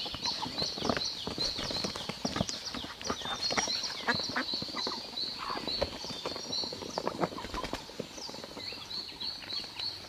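A fast, repeated high chirping call, many short notes a second, each dipping slightly in pitch, with irregular rustling and knocks underneath.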